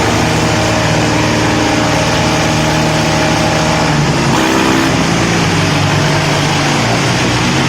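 Diesel tractor engines running hard, as in a tractor tug-of-war pull, with the engine pitch dropping and shifting about four seconds in before settling again.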